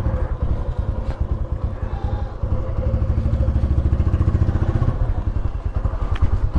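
Motorcycle engine just started and idling with a rapid, even putter, a little steadier and stronger about halfway through.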